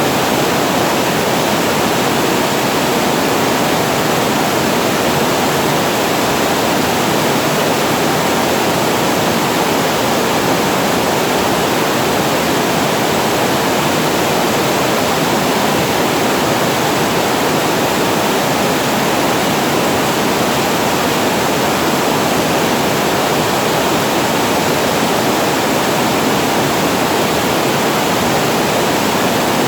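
Water pouring steadily over a weir and falling into the pool below, a constant full rushing noise with no pauses.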